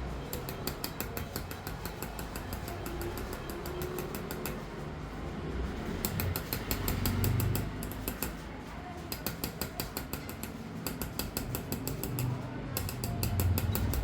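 Rapid, even tapping of a small hammer driving a qalamzani engraving chisel into a silver dish, about seven light metal taps a second. The tapping pauses briefly twice, over a low steady hum.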